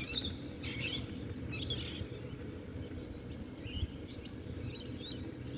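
Birds chirping in short, high calls, several in the first two seconds and a few scattered later, over a steady low rumble.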